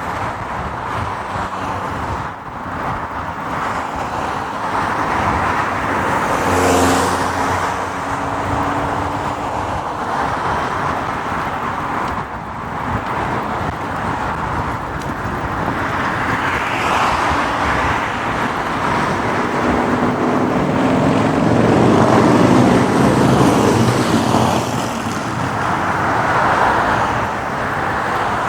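City street traffic heard from a motorcycle on the move: a steady rush of road and traffic noise, with engine sound swelling about seven seconds in and again from about twenty seconds.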